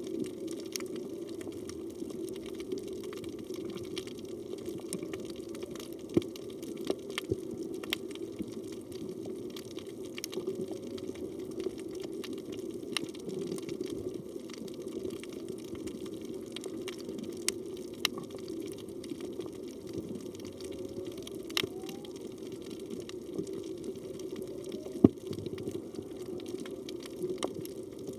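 Underwater reef ambience picked up by a phone in a waterproof housing: a steady water noise with scattered sharp clicks and occasional louder cracks. Faint short rising calls come every few seconds, which the recordist takes for distant humpback whale song.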